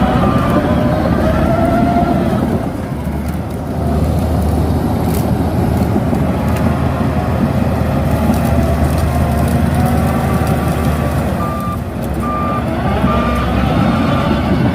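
Shantui DH17C2 bulldozer's diesel engine running under load, its pitch rising and falling. Its reversing alarm beeps about twice a second at the start and again from about two-thirds of the way through.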